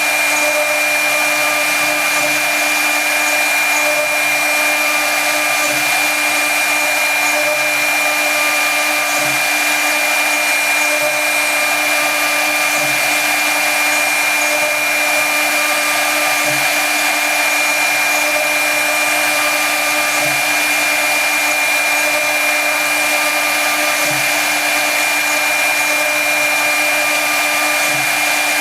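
Brushless CNC router spindle running at speed and cutting wood: a steady high whine over a constant hiss, with a faint low pulse about every three to four seconds.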